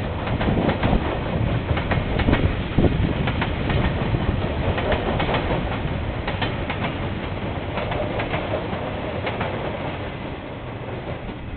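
KiwiRail train passing, its wagons' wheels clattering over the rail joints in many sharp clicks over a steady rumble, easing off near the end. Heard through a security camera's microphone, with the top end cut off.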